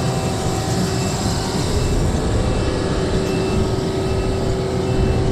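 Engine of a piece of construction machinery running steadily at a constant speed, a continuous rumble with a steady hum over it.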